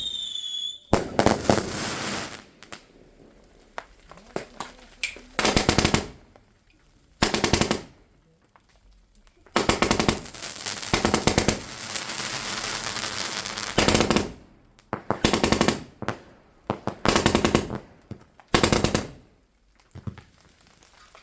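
Fireworks going off in a string of separate bursts of rapid crackling pops, each lasting from half a second to a few seconds, with a short whistle right at the start.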